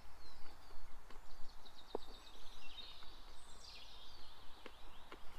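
Woodland birdsong: a songbird sings a run of quick repeated notes from about a second and a half in, ending in a falling flourish, among other high chirps. A few faint clicks sound along with it.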